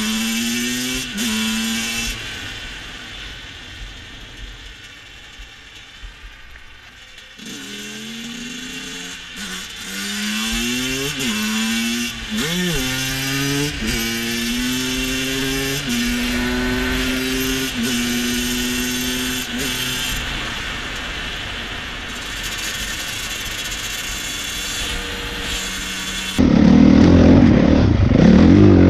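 Motorcycle engine pulling through the gears, its pitch climbing and then dropping back at each shift, easing off for a few seconds and later holding a steady note. Near the end the sound jumps suddenly to a much louder, rougher noise.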